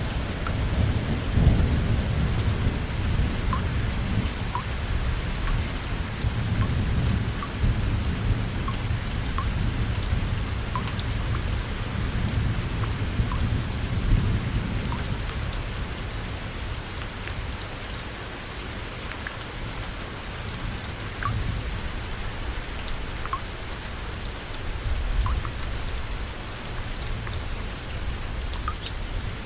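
Steady rain with low rolling thunder, heaviest through the first half and easing after about fifteen seconds, with scattered single drops ticking close by.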